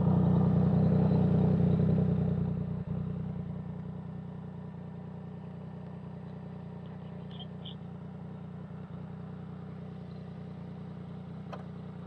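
Motorcycle engine running, louder for the first two or three seconds and then settling to a steady lower level.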